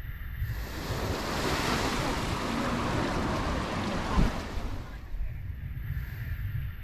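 A wave breaking and washing up the sand, its hiss swelling in about half a second in and fading away about five seconds in, over a low rumble of wind on the microphone.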